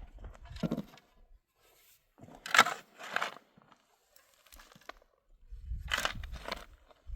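A few short crunching, scraping sounds at irregular intervals, the loudest about a third of the way in.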